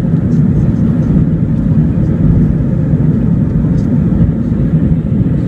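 Steady roar of an Airbus A321-231's IAE V2500 turbofan engines and rushing air, heard inside the passenger cabin, deep and unchanging throughout.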